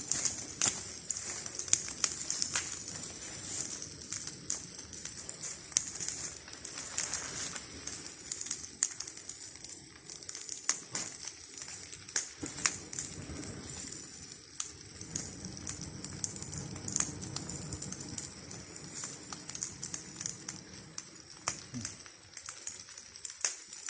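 Wood fire burning and taking hold, with irregular sharp crackles and pops throughout.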